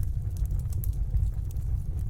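Fire burning in a fireplace: a steady low rumble of flame with a few faint crackles.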